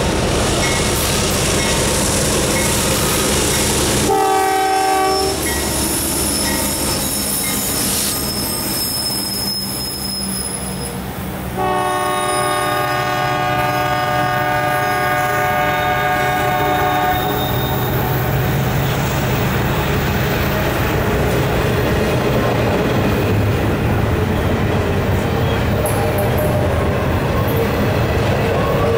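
Multi-tone air horn of a GE AC44CW diesel locomotive leading an intermodal freight: a short blast about four seconds in, then a long blast of about five seconds, as the locomotives pass with their diesel engines rumbling. After that, double-stack well cars roll by with a steady rumble of wheels on rail and some high wheel squeal.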